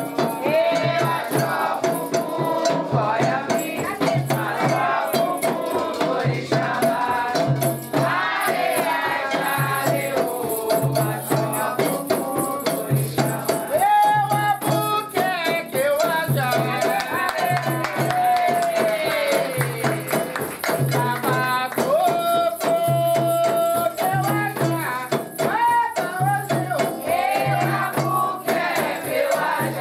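Sacred Candomblé song for Xangô: a voice singing over a steady low drumbeat and a shaken rattle.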